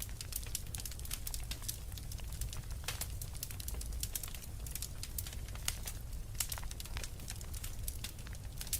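Wood fire crackling, with irregular sharp pops and snaps, several a second, over a steady low rumble of blizzard wind.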